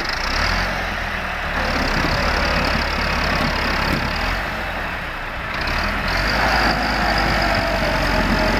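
Tractor diesel engine running steadily, a low drone with a high whine over it.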